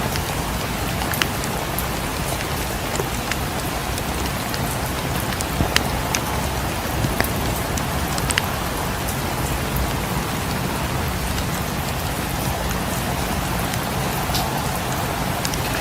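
Steady rain falling, an even hiss, with scattered sharp ticks and pops through it.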